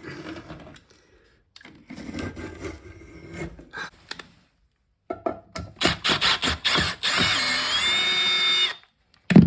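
Scraping and knocking of tools on a toilet, then a small power tool runs for about three seconds near the end, its whine rising in pitch as it spins up. A single loud thump closes it.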